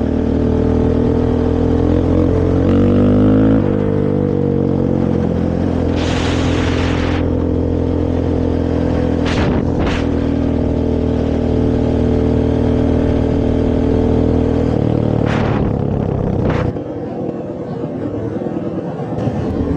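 Honda TRX450R quad's single-cylinder four-stroke engine running through its stock exhaust, revving up a little over two seconds in and dropping back, then holding steady. A short hiss comes about six seconds in, and a few sharp clicks are heard. The engine gets quieter near the end.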